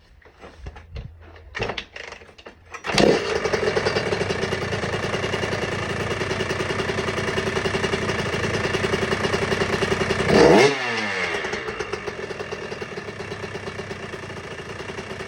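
The freshly rebuilt two-stroke single of a 2002 KTM 125 SX fires up about three seconds in after a few knocks, then runs with a fast, even beat. About ten seconds in it gets one sharp rev whose pitch falls back to a steady run.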